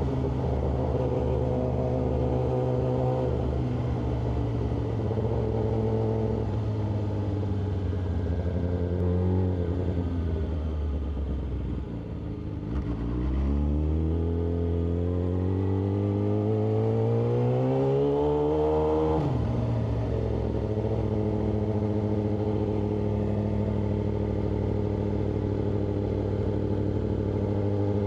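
Yamaha R6's inline-four engine under way. It runs steadily, then slows with falling pitch. About halfway through it pulls up through a gear with a steadily rising pitch, drops sharply at an upshift, and settles into a steady cruise.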